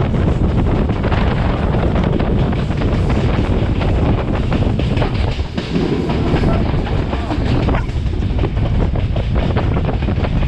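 Class S13 diesel multiple unit running at speed: a steady rumble of wheels on rail with frequent clicks from the track, and wind buffeting the microphone.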